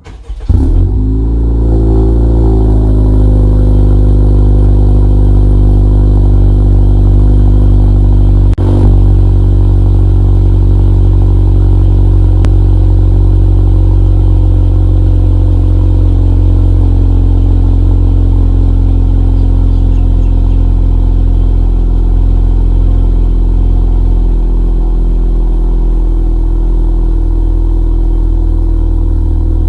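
Cold start of a 2018 Honda Accord's 1.5-litre turbocharged four-cylinder through a Thermal R&D frontpipe-back exhaust and PRL catless downpipe. The engine catches just after the start, flares up, then settles into a loud, steady fast idle, with one brief dip in level about eight seconds in.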